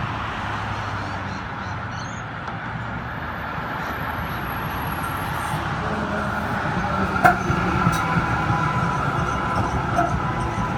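B2-class tram running on its rails, growing gradually louder, with two sharp clicks from the wheels about two-thirds of the way through and a thin steady whine in the later part.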